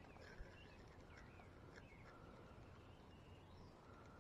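Faint bird calls over near silence: short chirps and sliding whistles, repeating several times.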